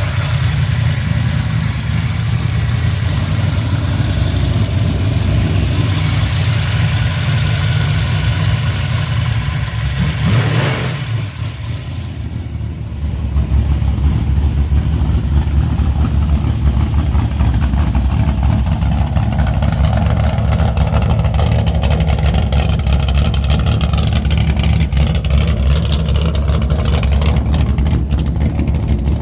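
Truck engine running with a steady low drone. About ten seconds in there is a brief whoosh and a short lull, then the engine drone comes back louder.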